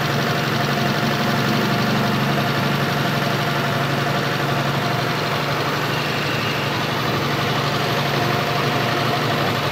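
Daihatsu Espass 1.6's carburetted four-cylinder engine idling steadily and smoothly on a distributor swapped in from another Espass, which points to the old distributor as the cause of its stalling and intermittent running.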